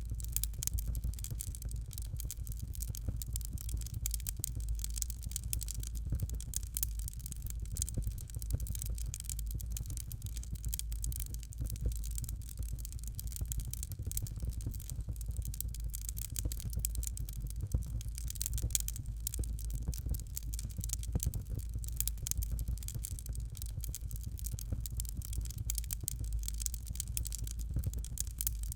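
Fire crackling: a dense, continuous run of small pops and crackles over a steady low rumble.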